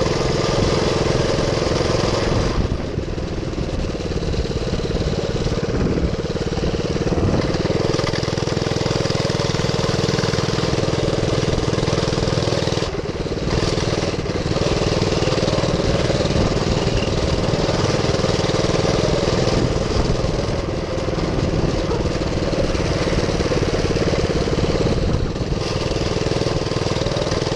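Minibike's GX200 single-cylinder four-stroke engine running steadily under throttle, with a few brief dips in revs along the way.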